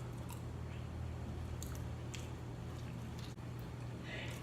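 Close-miked chewing and biting of food, with a few brief wet clicks, over a steady low hum.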